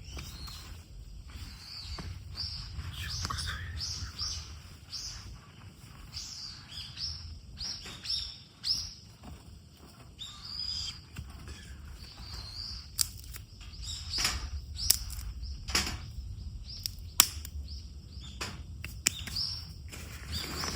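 Small birds chirping over and over, short high calls that fall in pitch. In the second half, a run of sharp clicks and snaps.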